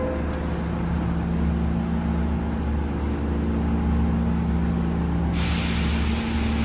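A New York City subway train standing in the station, its equipment giving a steady low hum. About five seconds in, a sudden loud hiss of air starts, typical of the train's air brakes releasing.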